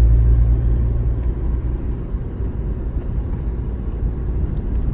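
Low rumble of a car, heaviest in the first second and then easing to a steady rumble.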